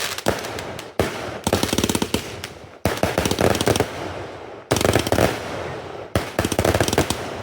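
Fireworks going off close by in rapid volleys of sharp bangs, with fresh barrages starting about a second in, near 3 s, near 5 s and near 6 s.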